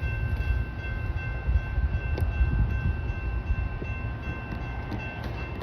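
Train running at the line, a steady low rumble with a few faint steady high tones and scattered light clicks.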